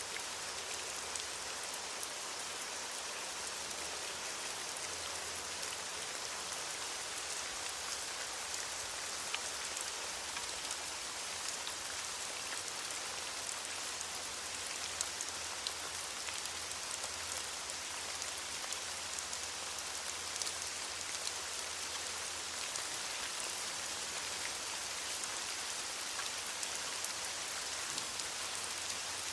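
Steady rain falling on leaves: a continuous hiss of dense drops with scattered sharper drip ticks.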